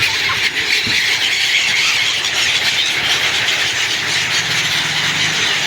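A large flock of birds chattering together, a dense, steady mass of overlapping high calls.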